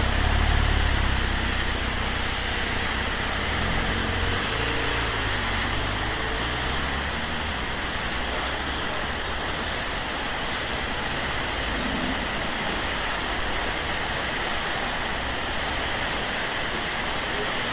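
Steady hiss of rain on a city street, with the low rumble of a vehicle that fades away over the first six or seven seconds.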